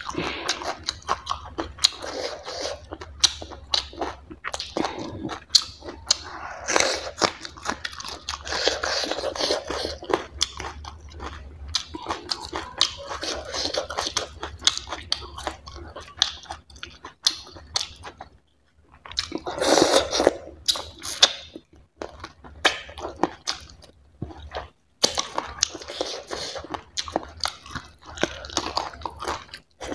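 Close-up chewing, lip-smacking and wet mouth sounds of a person eating barley-flour dhido and chicken curry by hand, with some crunchy bites.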